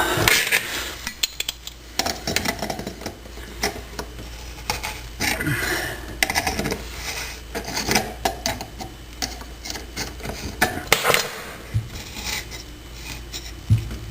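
Metal pliers clinking and scraping on a sink supply shutoff valve as it is turned off, a string of irregular metallic clicks, knocks and short rasping scrapes.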